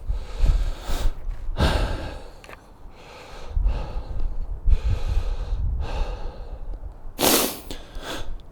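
A man breathing heavily, a series of puffing breaths, out of breath from driving a fencing stab into the ground, over a low rumble.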